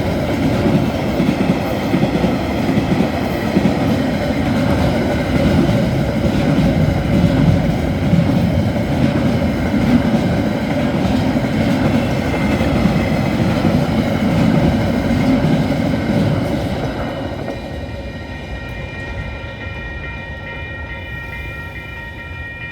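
Train passing over a level crossing, with a heavy rumble and the clatter of wheels over the rails. It fades from about two-thirds of the way through as the train moves away, leaving a steady high ringing tone.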